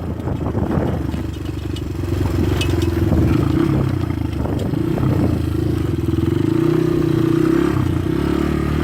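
200cc dirt bike engine running while being ridden, its note holding fairly steady and getting a bit louder about two seconds in.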